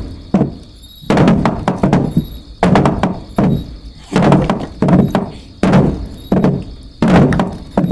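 A regular series of dull thuds, about one every three-quarters of a second.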